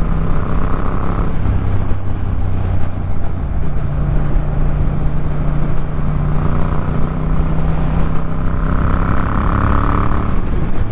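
Yamaha MT-07's parallel-twin engine running under a riding motorcycle, its note dropping about a second in and climbing again around four seconds as the engine speed changes, over a steady rush of wind.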